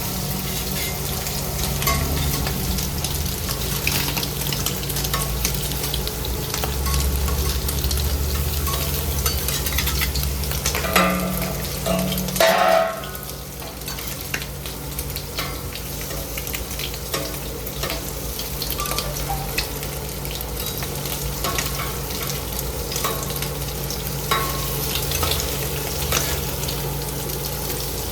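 Food frying on a hot cooking surface in a burger kitchen: a continuous sizzle full of small crackles and pops, over a steady low hum. About eleven seconds in there is a louder clatter lasting a second or two, and after it the sizzle is a little quieter.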